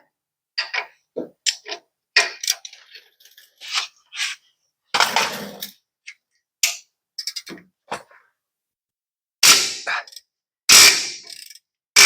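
Irregular clanks and knocks of a breaker bar and swivel socket straining on a seized rear leaf-spring U-bolt nut, a few of them sharp and loud.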